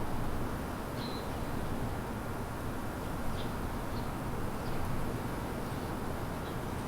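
Outdoor city ambience: a steady low rumble of distant traffic, with about five short, high bird chirps scattered through it.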